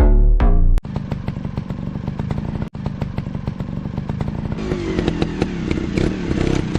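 Music cuts off abruptly about a second in, then off-road motorcycle engines run with a clattery, crackling sound. The engine note rises from about five seconds in.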